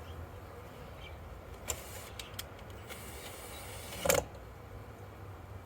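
Low steady hum of a mass of agitated honey bees around a newly opened hive, defensive with tails up. A few light clicks sound around two seconds in, and one sharp knock about four seconds in.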